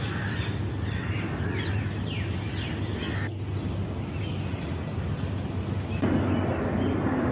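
Outdoor ambience with birds calling: a few short falling calls near the middle and a short high note repeating about twice a second, over a steady low hum.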